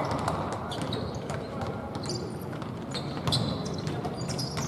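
Basketball being dribbled and bounced on a court during a game: a string of sharp knocks, with a few short high squeaks over a steady hubbub of voices.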